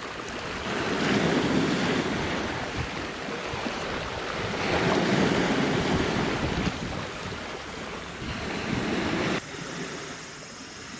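Wind gusting across the microphone over a steady wash of sea water, swelling twice and dropping suddenly near the end.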